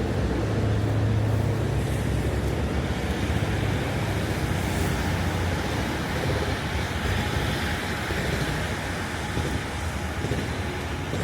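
Road traffic on a wet street: vehicle engines running low and steady, stronger in the first few seconds, with a continuous hiss of wet road and rain noise.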